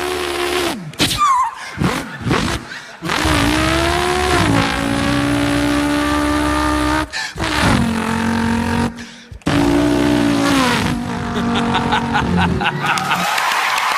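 A man vocally imitating racing car engines, mouth-made revving notes that rise and fall and hold in long stretches, broken by short gaps like gear changes. Applause starts near the end.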